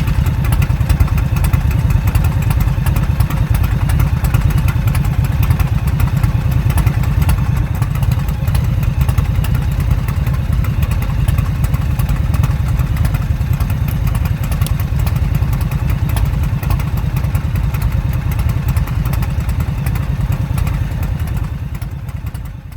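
Indian motorcycle V-twin engines running steadily with a dense, low exhaust pulse, fading out near the end.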